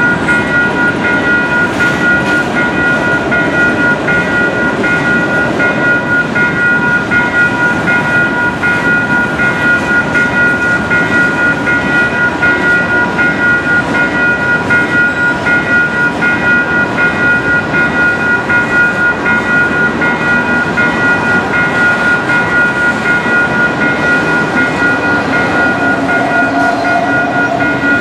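A freight train of covered hopper cars rolling past a level crossing, its wheels rumbling and clattering steadily on the rails. Over it, the crossing signal's warning bell rings in a rapid, even beat.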